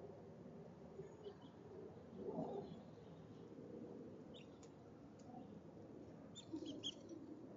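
Faint short chirps from small birds at a backyard feeder: a few single chirps, then a quick cluster near the end, over a low background rumble.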